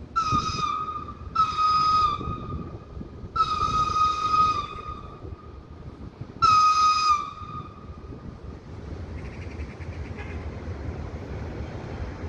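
Locomotive whistle sounding four high-pitched blasts: two short ones, a longer one, then a short one after a pause, each dipping slightly in pitch as it starts. A steady low rumble runs underneath and continues after the blasts.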